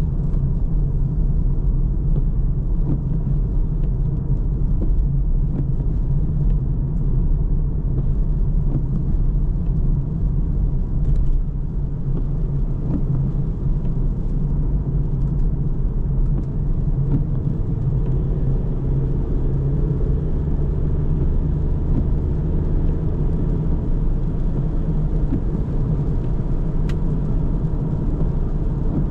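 A car driving at a steady pace: continuous low engine and tyre rumble, with no change in speed.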